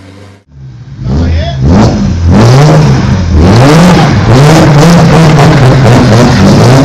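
BMW E36 M3 Evo's 3.2-litre straight-six through a Supersprint exhaust, revved hard again and again from about a second in. The pitch rises and falls with each rev, then holds high through the middle, with sharp crackles near the end.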